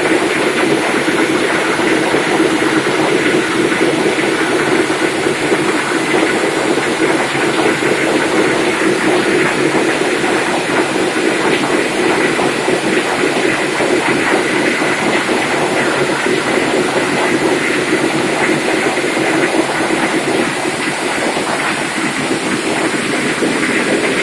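Ship's engine-room machinery running, a loud steady din with a constant hum and a high whine over it.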